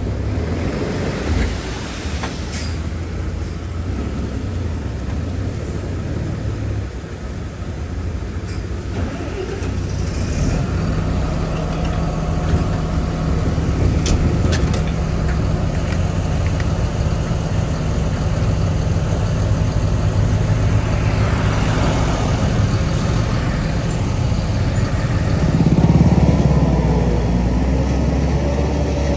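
Heavy diesel engine of earthmoving machinery running under work, a steady drone that rises in pitch about a third of the way in and swells louder near the end, with a few sharp knocks.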